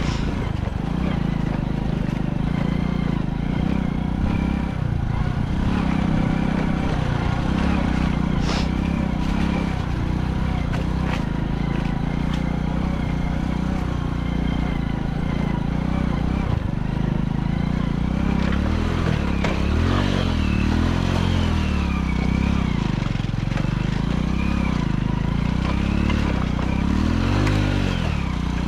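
Motorcycle engine running under load on a rough jungle track. Its pitch rises and falls again and again in the second half as the throttle is worked. Two sharp clicks come about a third of the way in.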